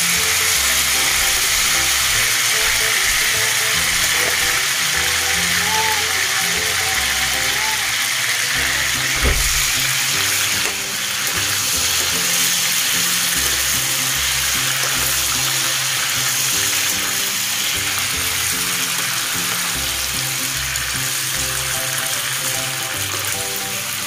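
Boiled chicken adobo pieces sizzling steadily as they fry in bubbling oil in a nonstick pan: the sauté stage of tuyong adobo. Background music plays over it.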